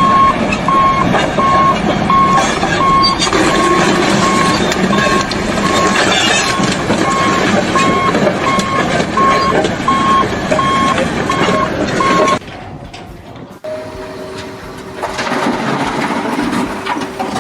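Heavy vehicle's backup alarm beeping evenly, about one beep every 0.7 seconds, over loud engine and machinery noise. Both cut off suddenly about twelve seconds in, and a quieter, different mechanical sound follows.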